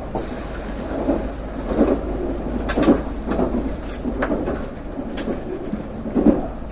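Shinkansen car interior running noise: a steady low rumble with irregular thuds and a few sharp clicks as the train rolls along.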